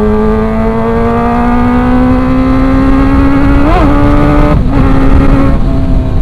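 Kawasaki ZX-25R's 250 cc inline-four engine pulling under acceleration, its pitch climbing slowly and steadily. There is a quick upward flick in pitch about three and a half seconds in and a short break in the engine sound about a second later. Wind rushes over the microphone underneath.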